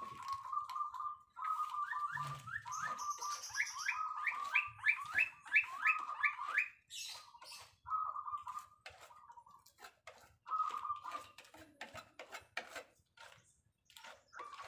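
A bird calling: a held whistled note, broken mid-way by a run of quick rising chirps, over rustling and tapping of paper and plastic being handled.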